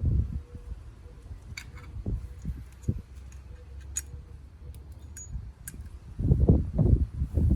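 Light metallic clicks and clinks of small motorcycle clutch parts being handled and fitted, over a faint low hum. Near the end comes a quick run of dull low thumps.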